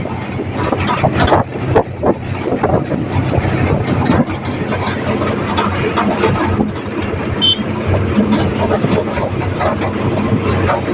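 Tractor engine running steadily as the tractor drives along, heard from on board, with continual irregular rattling and knocking.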